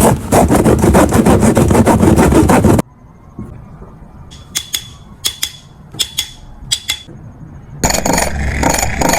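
Hand tools working on a car engine: a rapid rattling clatter for about three seconds that cuts off suddenly. A few sharp metallic clinks follow, mostly in pairs. Loud, dense mechanical noise starts near the end.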